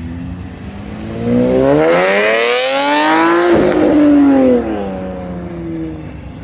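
A vehicle engine revving hard: the pitch climbs steadily for about two seconds, holds high, then drops suddenly and falls back toward idle.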